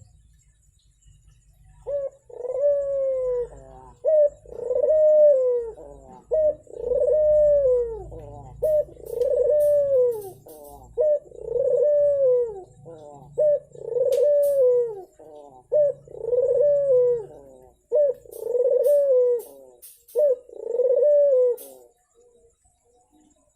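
A puter (ringneck dove) cooing over and over, about ten phrases roughly two seconds apart, each a short note followed by a long rising-and-falling coo. A faint low hum sits underneath.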